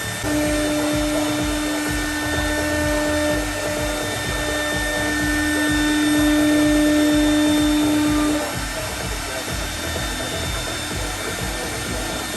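CNC router spindle milling aluminium composite panel, a steady machine noise with a strong whining tone that cuts in just after the start and drops away about eight seconds in, leaving the machine running more quietly.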